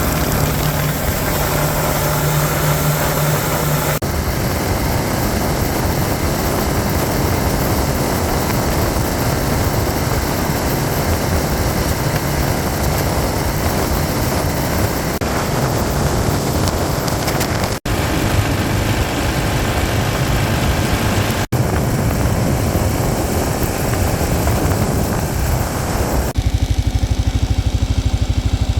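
Kawasaki KLR650 single-cylinder motorcycle being ridden, its engine under a heavy rushing noise of wind on the microphone, in several clips joined by abrupt cuts. In the last couple of seconds the engine is heard as an even, low throbbing pulse.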